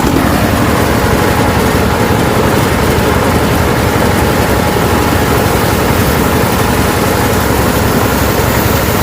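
Engine running loudly and steadily at an even pace.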